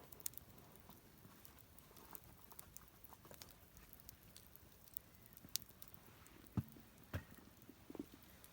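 Square lumber offcuts burning in a fire pit, crackling faintly with scattered sharp pops and a couple of louder pops past the middle.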